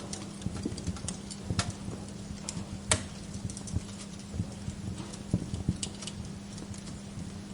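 Wood fire crackling and popping at irregular intervals, with one sharp pop about three seconds in, over a steady low hum.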